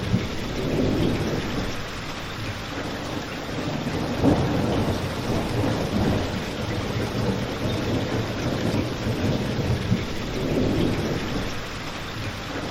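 Steady rain with a crackling fireplace. Under it a low rumble swells and fades, and a few sharp pops stand out, one about four seconds in and one near the end.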